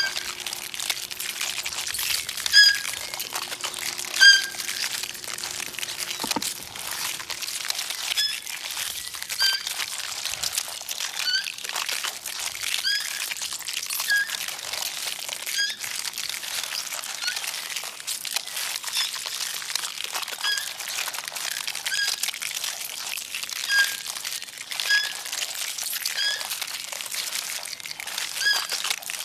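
Short, high peeping calls repeated about once every second, from a small animal or young bird, over steady rustling and crackling.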